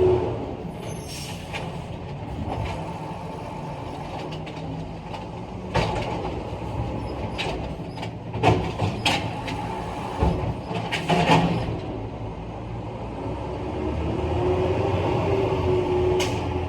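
Garbage truck engine running steadily, with several sharp metal clanks and knocks in the middle and a faint whine that rises and falls near the end.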